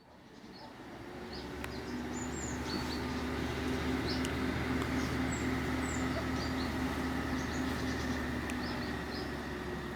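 Steady low engine hum, fading in over the first couple of seconds, with small birds chirping over it.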